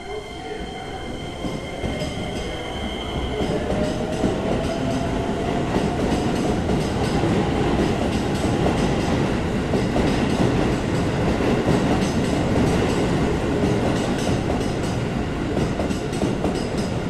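Electric commuter train pulling out of the platform: a motor whine rising in pitch over the first few seconds, then steady wheel-on-rail running noise that grows louder as it gathers speed.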